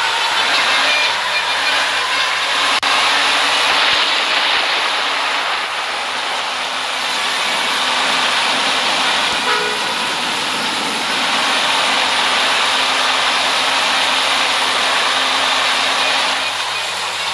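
Steady road vehicle noise: engine hum and the rush of tyres and wind, with a brief higher tone about nine and a half seconds in.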